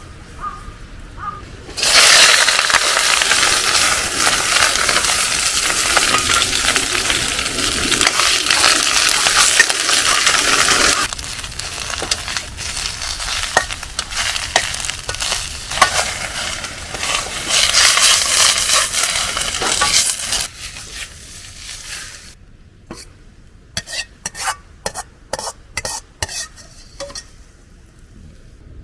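Food frying in a wok: a loud sizzle breaks out suddenly about two seconds in, stays strong for about nine seconds, then goes on more quietly with stirring clinks. Near the end the sizzle dies away and a run of sharp metal clicks of a utensil against the wok follows.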